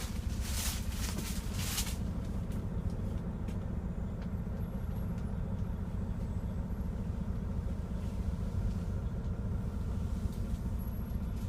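Mack MP8 diesel engine of a 2015 Mack CHU613 tractor idling steadily, heard as a low rumble from inside the cab. A brief rustle comes over it in the first couple of seconds.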